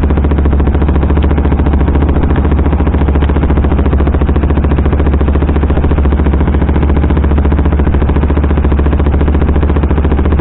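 KTM sportbike engine running steadily under way, tuned with a Powertronic piggyback ECU. Its firing pulses make a dense, even beat with a strong low note, holding a fairly constant speed.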